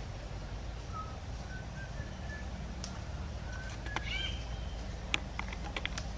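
Small forest birds chirping in short whistled notes, with a few sharp clicks in the last two seconds, over a steady low hum.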